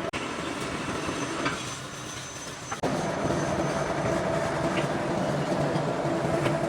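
A machine running with a steady hum and rattle, which becomes slightly louder and steadier about three seconds in.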